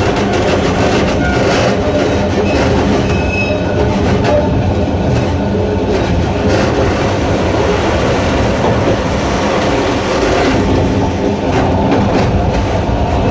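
Narrow-gauge electric train of the Sangi Railway Hokusei Line running, the loud steady rumble of its nose-suspended traction motors and wheels on rail, with a few brief high squeal tones from the wheels in the first few seconds.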